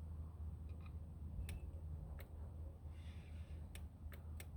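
Relay inside a Dobinsons Zenith air compressor clicking several times at uneven intervals while the pump motor stays silent, over a low steady hum. It is the sign of a compressor that will not start: the relay clicks but power never reaches the pump, which the owner puts down to a fault on the internal circuit board.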